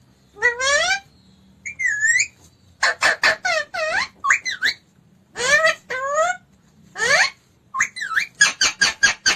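Pet parrot calling and chattering: rising whistled calls and dipping squawks, with quick runs of short, sharp calls around the middle and again near the end.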